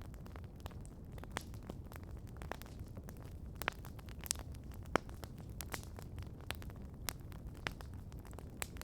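Wood campfire crackling, with sharp irregular pops over a soft low rumble; the loudest pop comes about five seconds in.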